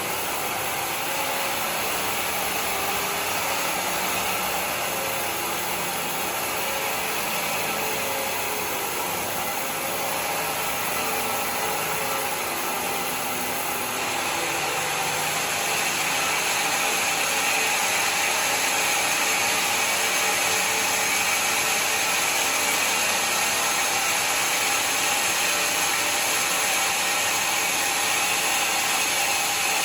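Sawmill running steadily as it saws through mahogany. The sound grows louder and sharper about halfway through.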